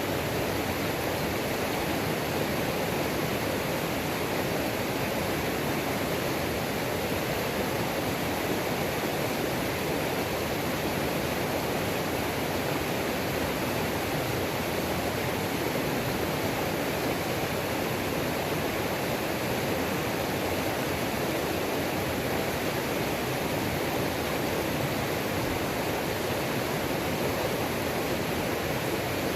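Waterfall and creek water rushing over rocks, a steady, unbroken rush.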